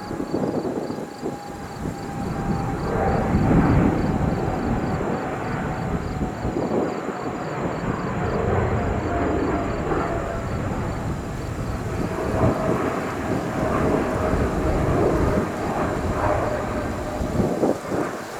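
Jet airliner's engines rumbling as it passes, with a thin whine that slowly falls in pitch.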